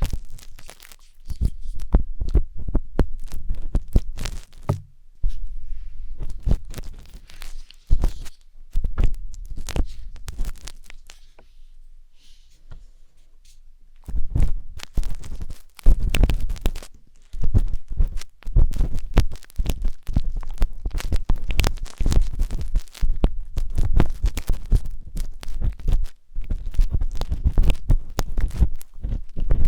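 Wooden skewer scraping and scratching inside the silicone ear of a 3Dio binaural microphone: a dense run of crackling scrapes with low rumbles. It eases off for a couple of seconds about twelve seconds in, then picks up again.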